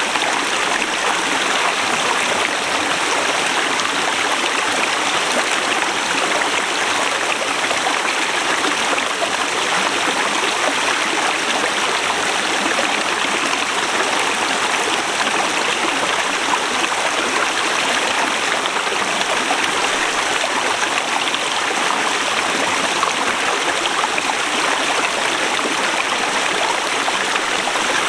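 Forest river flowing over rocks: a steady rushing of water, even and unbroken.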